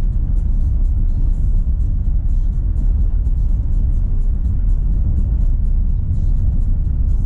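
Renault Sandero Stepway 2 driving on a dirt road: a steady low rumble of tyres and suspension, with faint irregular ticking over it. Background music plays along with it.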